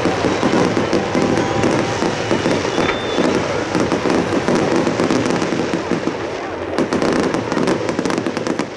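Fireworks display: a continuous barrage of shell bursts and booms. Dense sharp crackling pops join in for the last couple of seconds.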